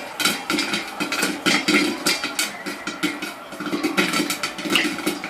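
A small spoon clicking and scraping against a dish as a toddler feeds herself, many quick irregular clicks, over a steady low hum.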